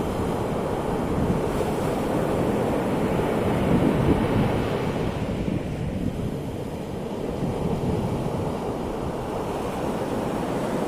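Ocean waves washing onto the shore, a steady surf that swells about four seconds in and again near the end.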